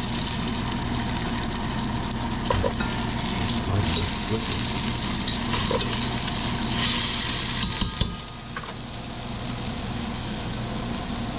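Thin chicken cutlets frying in hot oil in a pan, a steady sizzle. About eight seconds in, after a couple of sharp clicks, the sizzle drops and stays quieter.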